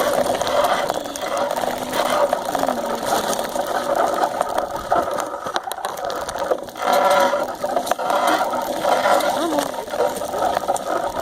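Steady rattling and whirring from a bicycle being ridden, the kind of mechanical clatter a camera picks up while riding, with a louder surge about seven seconds in.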